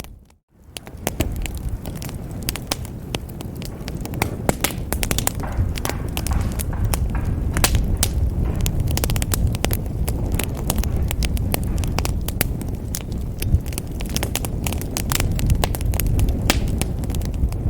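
Wood fire in a fireplace crackling, with many sharp pops and snaps over a steady low rumble of the flames. It cuts out for a moment at the very start and fades back in.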